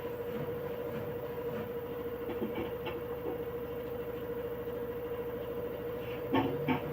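LG 6.5 kg front-loading washing machine in its fast spin, drum turning at high speed with a steady whine and a low rumble. Two short knocks come near the end.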